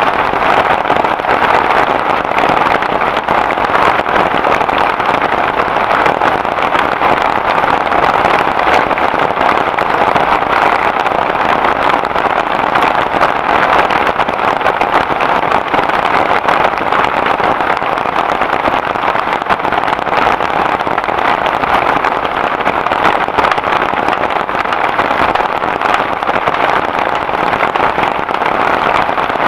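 Heavy rain falling steadily, a loud even hiss with no let-up.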